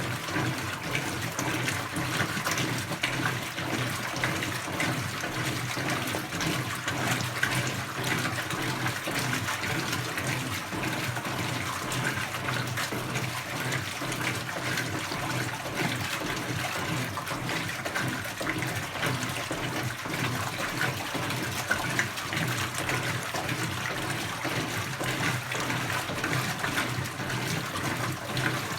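Brastemp 17 kg BWK17 washing machine mid-cycle, water running and sloshing in its tub over a steady low hum, without letting up.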